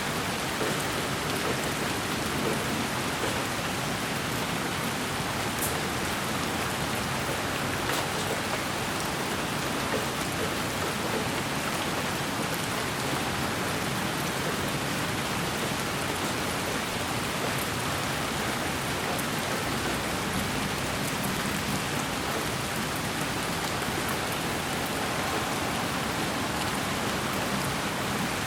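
Steady rain noise: an even, unbroken hiss with a couple of faint ticks like single drops.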